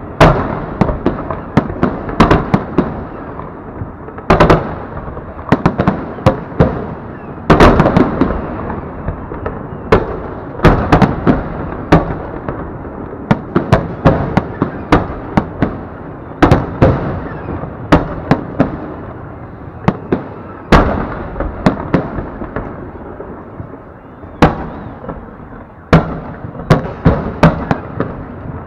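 Aerial fireworks salute: shells bursting overhead in an irregular barrage of loud bangs, sometimes several in quick succession, each trailing off in an echo.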